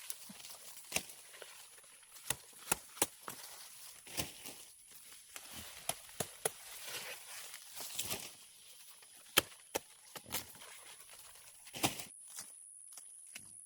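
Sugarcane being cut and handled by hand: about a dozen irregular sharp chops and snaps among rustling of stalks and leaves.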